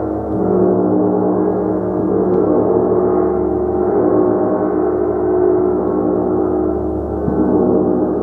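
Gong played continuously, a dense, sustained wash of many overlapping ringing tones, with fresh strokes swelling in about a third of a second in and again near the end.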